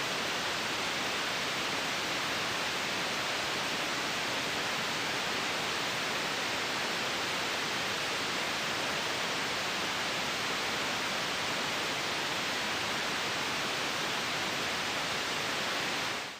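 Steady white noise, an even hiss, that fades out in the last moment.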